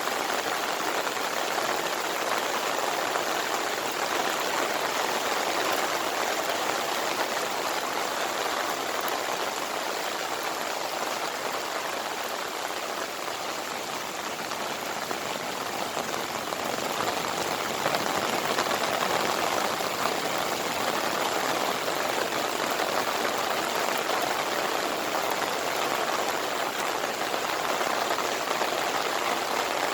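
Steady heavy monsoon-season rain pouring down, a dense even hiss of falling water.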